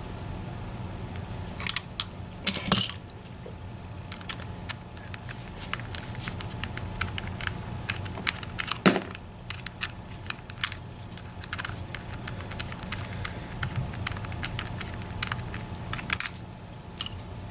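Small irregular metallic clicks and taps of a high-security lock cylinder being worked with hand tools while it is stuck and will not come apart, with a couple of louder knocks along the way.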